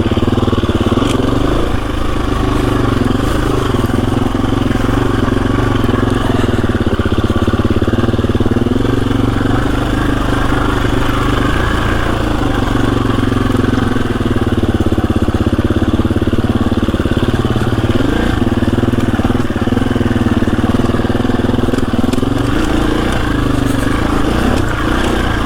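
KTM 350 EXC-F dirt bike's single-cylinder four-stroke engine running steadily at low revs, its pitch rising and falling a little with the throttle.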